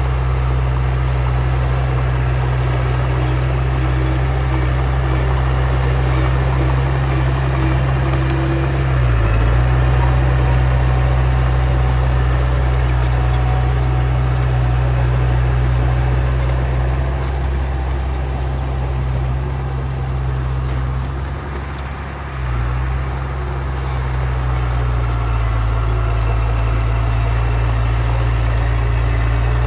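Heavy diesel engine of earthmoving machinery running steadily, its pitch dipping briefly about nine seconds in and again, with a slight drop in level, a little past twenty seconds.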